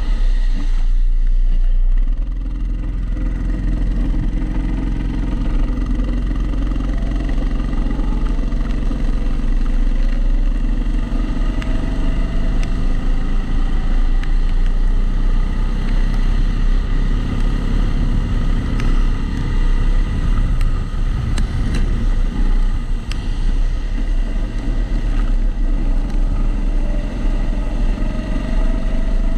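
Kart engine heard onboard, running steadily with its pitch rising and falling as the kart accelerates and lifts for corners, over a constant low drone. There is a recurring extra noise, which the uploader puts down to the camera sitting in a housing.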